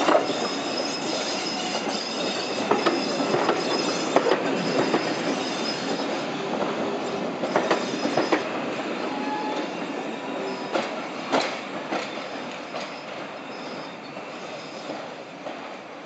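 Passenger coaches hauled by a Class 40 diesel rolling past over curved pointwork: irregular wheel clicks and knocks over the points and rail joints, with wheel squeal on the curve, under a steady high whistle from the Class 40's turbocharged engine. The train sound slowly fades over the second half as it moves away.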